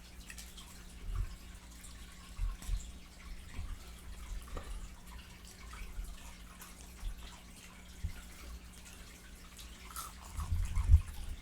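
Close-miked wet chewing and lip-smacking of someone eating fried chicken: irregular soft smacks and clicks, with a louder run of chewing near the end.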